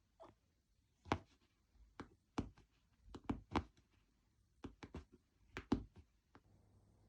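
A series of irregular short knocks and taps, about fifteen over several seconds, some louder than others.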